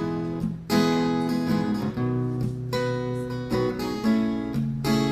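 Acoustic guitar strumming an instrumental intro. Each chord is struck and left to ring, and the chord changes every second or two.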